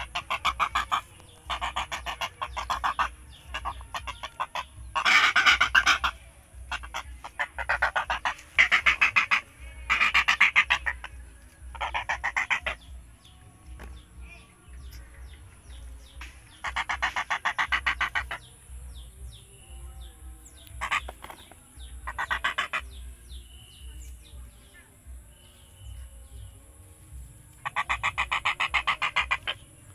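A large wading bird (bangau) giving harsh, buzzy honking calls about a dozen times, each lasting around a second, with the longest near the end.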